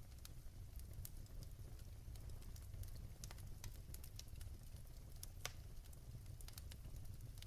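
Wood fire crackling in a fireplace: scattered sharp pops and snaps over a low steady rumble of the burning fire, with a louder pop about five and a half seconds in.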